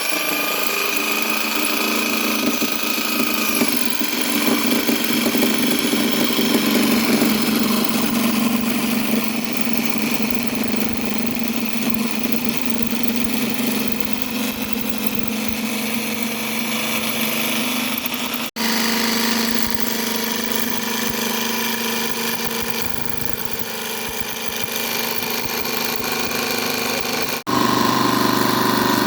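Electric jigsaw with a fine-tooth blade, running at slow speed and cutting through a plastic motorcycle windscreen. The motor hum is steady, with two abrupt breaks about 18 and 27 seconds in, after each of which it resumes at a slightly different pitch.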